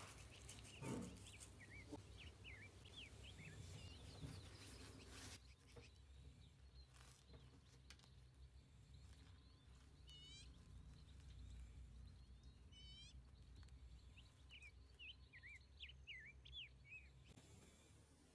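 Faint chirping of small birds, short calls that glide up and down in pitch, scattered through, with two quick repeated runs of chirps midway. A few soft clicks in the first few seconds.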